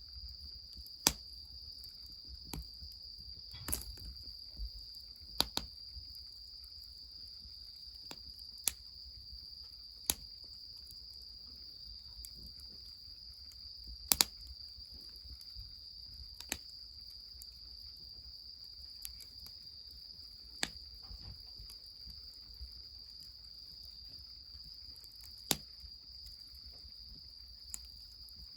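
Wood fire crackling, with sharp irregular pops a second or few apart, over the steady high chirring of insects.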